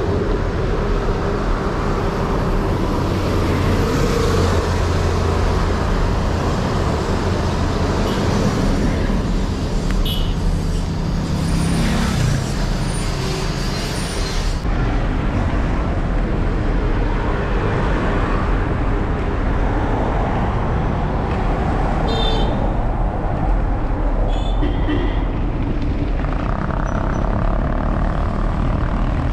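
Steady road traffic noise heard while riding along a busy road, with vehicles going past.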